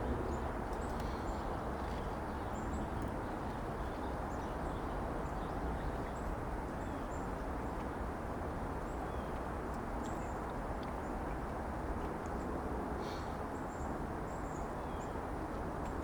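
Motor oil pouring steadily from a jug into a diesel engine's oil filler, with faint bird chirps above it.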